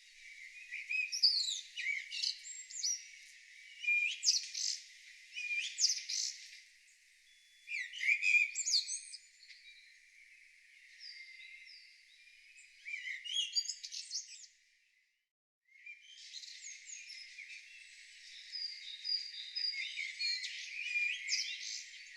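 Wild birds singing: phrases and trills come in short bursts every second or two. There is a brief drop-out about two-thirds of the way through, after which a denser chorus of song carries on.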